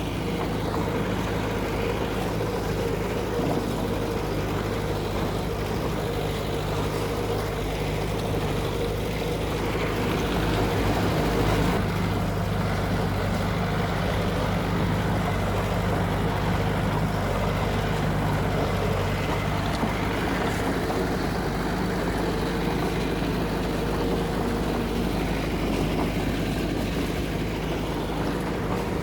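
Diesel engine of heavy earthmoving machinery running steadily, a continuous low engine hum that grows slightly louder about twelve seconds in.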